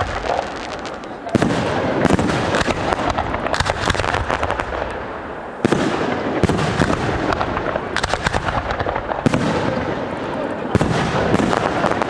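Fireworks display: dense, rapid crackling and popping of bursting shells. Fresh volleys break in suddenly about a second and a half in, near the middle, and twice more towards the end.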